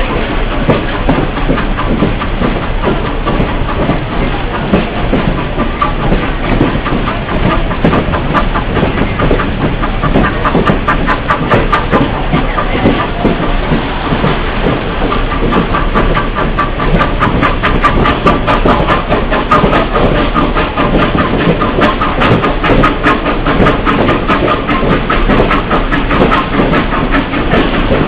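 Excursion train running along the track: a steady rolling rumble of wheels on rails with rapid clicking throughout.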